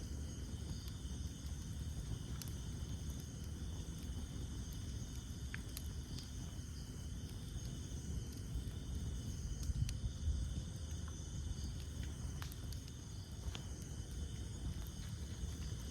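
Campfire of burning wood: a low, steady rumble of flames with scattered sharp pops and crackles, a dozen or so spread unevenly. Under it runs a steady high chirring of night insects.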